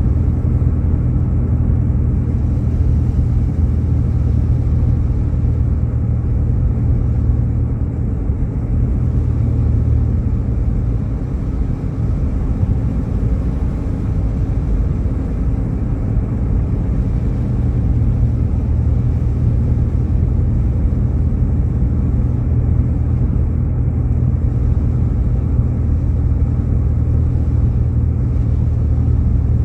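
Steady low rumble of road and engine noise inside a Jeep Grand Cherokee's cabin as it drives on a snowy, slushy road. The rumble eases slightly about eleven seconds in.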